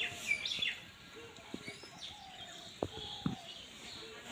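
Small birds chirping, with a few quick falling chirps in the first second and quieter calls after. Two sharp knocks come close together a little under three seconds in.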